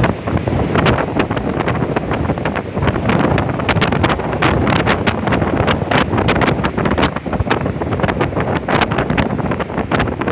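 Storm-force wind buffeting the microphone, a loud, dense rushing noise broken by frequent sharp crackling taps.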